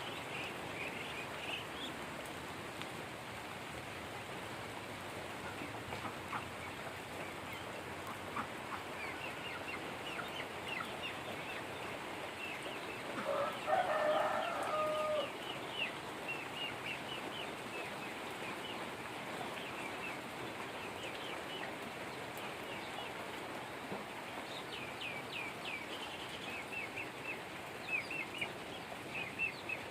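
Steady rain hiss, with many short high peeps from young poultry coming in runs, and a rooster crowing once, about two seconds long, around halfway through.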